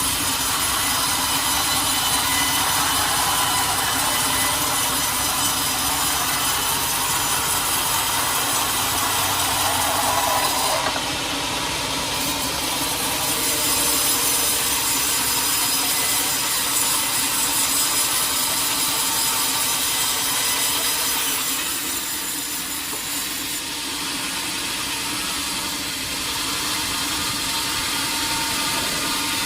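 Sawmill saw cutting through a large teak log, running steadily with a whining tone over the cutting noise. The sound changes character about eleven seconds in and drops slightly in level about three quarters of the way through.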